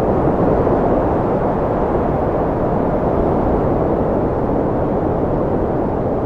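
Cold wind blowing steadily: a dense, deep rushing noise with no lulls or gusts.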